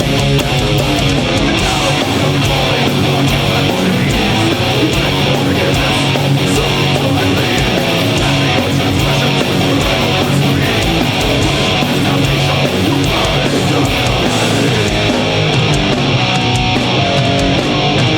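Live metal band playing loud and dense, with distorted electric guitars, bass guitar and drums.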